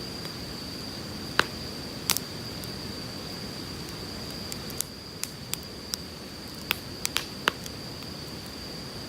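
Firewood burning with sharp crackling pops, about ten in all, most of them bunched between about five and eight seconds in, over the steady rush of a flowing river. A thin, steady high tone runs underneath.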